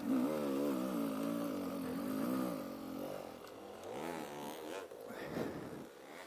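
Dirt bike engine pulling up a steep hill, its note wavering up and down as the revs rise and fall. It eases off about three seconds in and picks up again briefly a second later.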